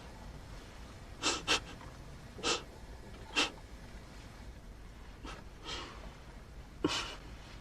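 A person quietly stifling laughter: short, breathy snickers through the nose, about seven puffs coming irregularly over several seconds.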